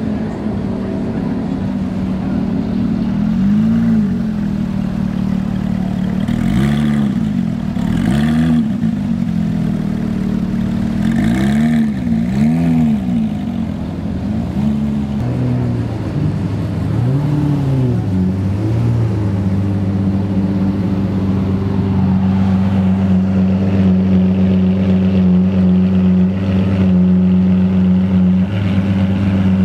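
A car engine blipped several times, each rev rising and falling quickly, then settling into a steady idle for the last ten seconds or so.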